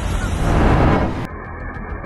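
A loud, rushing rumble of wind- or water-like noise cuts off abruptly about a second in. It gives way to music with a steady beat.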